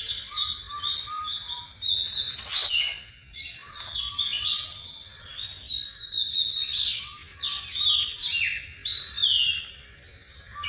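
Many small birds chirping and singing at once, quick overlapping chirps and whistled notes sliding up and down without a break.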